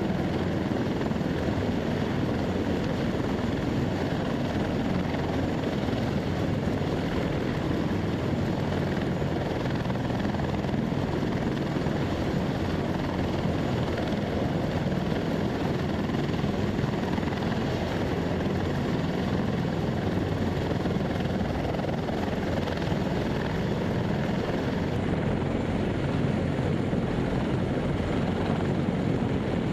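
Helicopter running, a steady, even noise that holds unchanged throughout.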